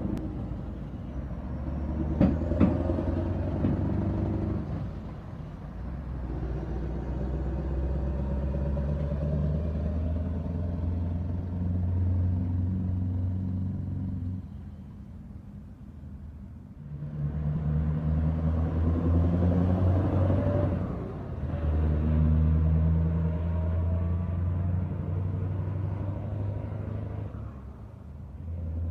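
Scania V8 truck engines running and driving past, the engine note swelling and fading several times, with quieter gaps about halfway and near the end. A couple of sharp clicks about two seconds in.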